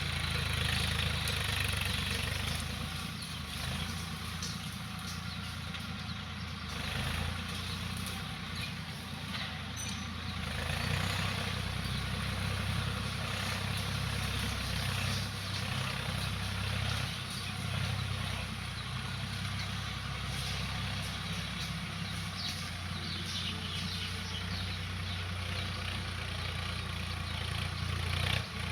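Swaraj tractor's diesel engine running steadily while pulling a cultivator, a constant low rumble under a steady hiss.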